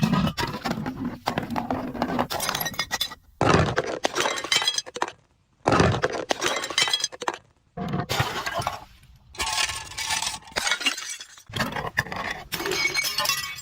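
Glass bottles breaking and shattering, about five times in a row, each a sudden crunch followed by a second or so of tinkling, crackling shards.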